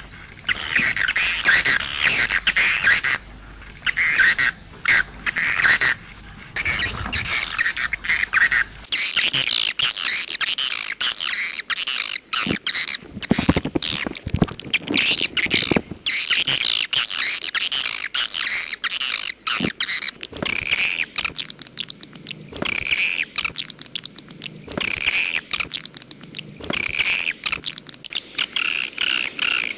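Swiftlet calls: dense, rapid twittering chirps in bursts of a few seconds with short gaps between them. It is a 'walet' call track of the kind played to draw swiftlets to a nesting house.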